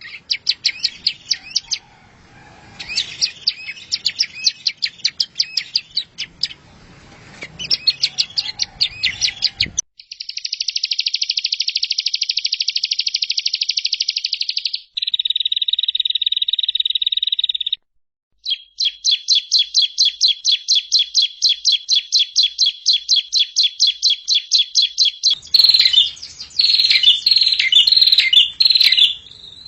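Songbird masteran (tutor song) recordings: high chirping song phrases at first, then about ten seconds in a long dry buzzing trill and a steadier trill, a short pause, and a fast even run of repeated sharp notes, with varied chirps returning near the end. The background cuts in and out abruptly, as between spliced recordings.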